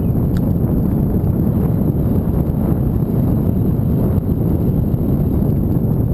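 Wind buffeting the microphone while riding: a loud, steady low rumble with no distinct events.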